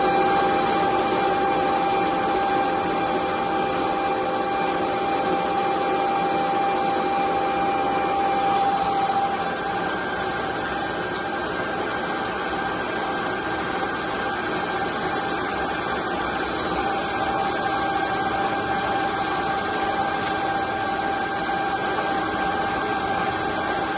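A motor running at a steady speed: a constant whine made of several fixed tones over a hum.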